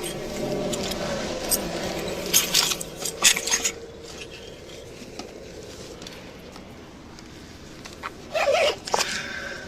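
Handling noises during a search: a run of rustles, clicks and clinks for the first few seconds, a quieter stretch, then another short clatter near the end.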